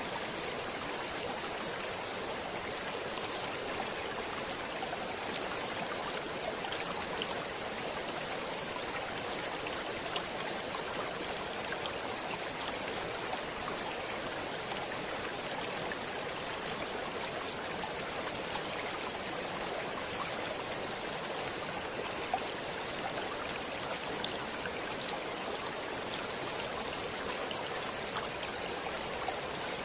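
Stream water flowing steadily over rocks, a continuous rushing with small splashes and droplet ticks scattered through it.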